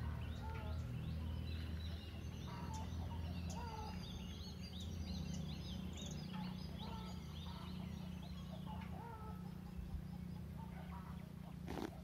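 Birds chirping in quick repeated short notes, several a second, thinning out after about nine seconds, over a steady low hum. A short knock near the end.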